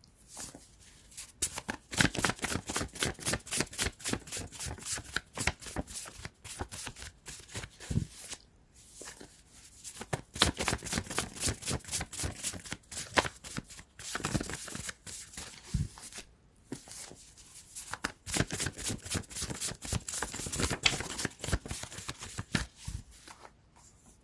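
A deck of tarot cards being shuffled: four runs of rapid card clicks lasting several seconds each, with short pauses between them.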